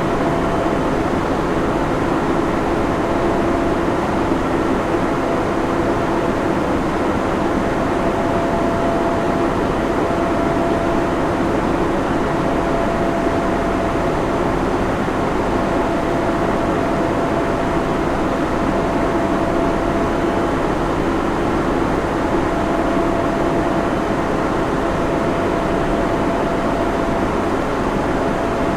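Steady drone of a server room: cooling fans and equipment running with an even rushing noise and a constant low hum, with a thin steady whine above it.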